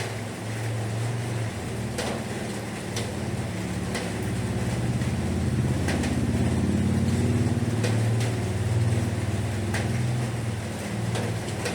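Heavy rain with a low rumble that swells through the middle and eases near the end, and a few sharp drips striking now and then.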